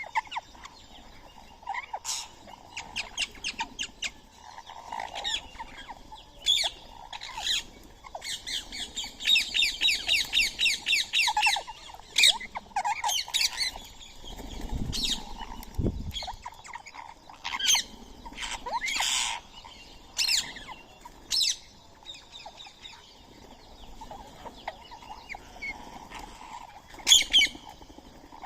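Rose-ringed parakeets squawking and chirping at a feeding spot: many short, sharp high calls, with a fast run of repeated calls a little before the middle. Two low thumps come about halfway through.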